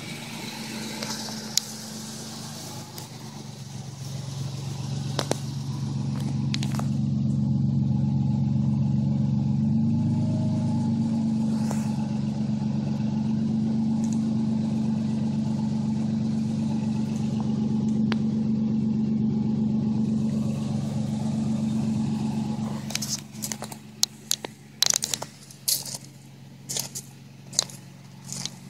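2011 Toyota Tacoma idling steadily through a TRD cat-back exhaust, a low even drone that grows louder about four seconds in and holds, then falls back near the end. Sharp crackling and clicking sounds come in over the quieter idle in the last few seconds.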